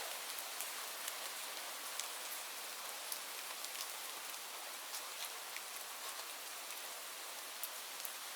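Steady rain falling, a constant hiss with scattered sharp drip ticks of individual drops.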